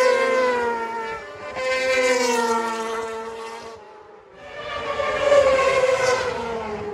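Racing superbikes going past at high revs, one after another. Each engine note swells and fades with its pitch sliding slowly down as the bike passes, three passes in all.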